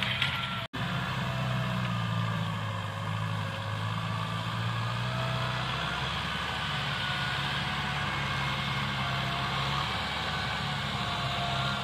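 Tractor engine running steadily under load, with an instant's dropout in the sound less than a second in.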